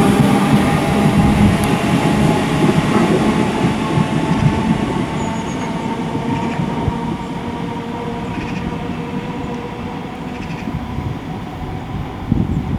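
Merseyrail PEP-family electric multiple unit running on the line, its motor whine and wheel rumble fading steadily as it draws away.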